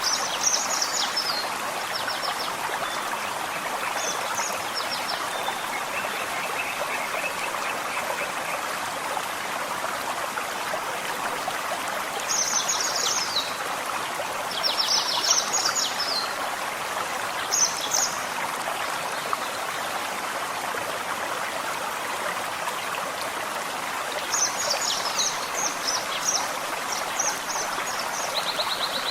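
Forest stream flowing steadily. Small birds sing short bursts of quick, high notes several times over the water, and a thin steady trill runs for a few seconds early on.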